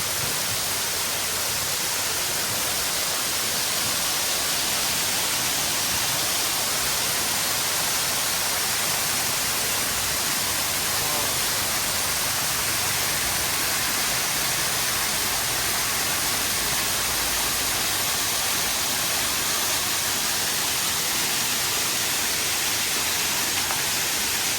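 Waterfall up close: a steady rush of falling, splashing water, loud and unchanging.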